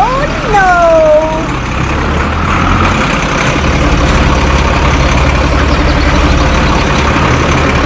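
Steady low engine rumble of a running vehicle, with a brief falling whine in the first second or so.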